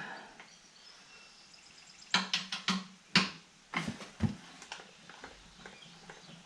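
Sharp knocks and clicks of hand work on the mower: a quick run of about four about two seconds in, then single ones near three and four seconds, with quiet shop room tone between.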